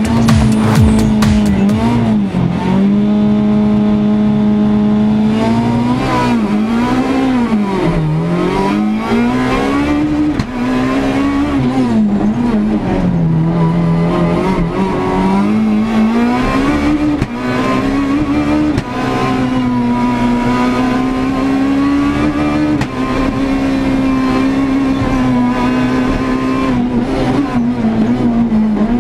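Renault Clio S1600 rally car's 1.6-litre four-cylinder engine at full stage pace, heard from inside the cockpit. The revs climb and drop again and again with the gear changes through the corners.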